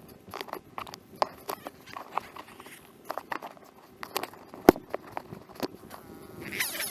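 Irregular knocks and clicks, a few a second, with one sharper knock about four and a half seconds in.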